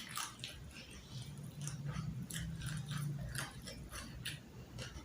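A person chewing crunchy food close to the microphone, a meal of fried carp and fresh vegetables, with many irregular crisp crunches.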